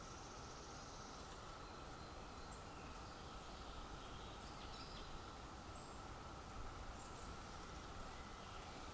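Faint outdoor nature ambience: a steady background hiss with a few short, high bird chirps scattered through it.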